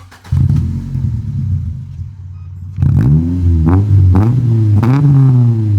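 Honda Civic Si's 1.6-litre ZC DOHC inline-four exhaling through a 5zigen aftermarket muffler. It runs steadily at a low pitch, then a little under halfway through it is revved up and down about four times in quick succession, the pitch rising and falling with each rev.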